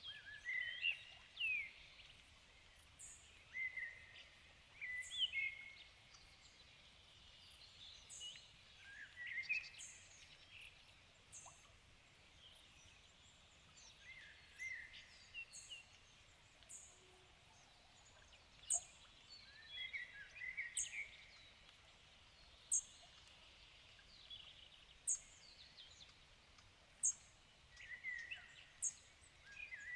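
Evening birdsong from several birds: a short, high chirp repeated every second or two, over warbling phrases of quick rising and falling notes from other birds, with a faint steady background hiss.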